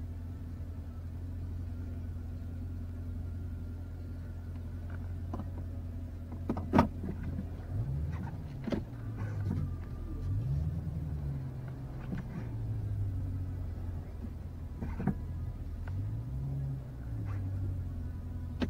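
A 2017 Dodge Challenger SRT392's 6.4-litre HEMI V8 idling steadily, heard from inside the cabin. From about eight seconds in, the engine speed rises and falls a few times. Several sharp clicks come through, the loudest about seven seconds in.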